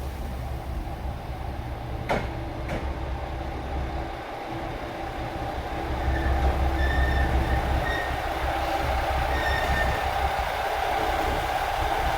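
JR Shikoku Anpanman train running along the track with a steady low rumble. There are two sharp clicks about two seconds in, and it grows louder about six seconds in, with faint short high tones over it.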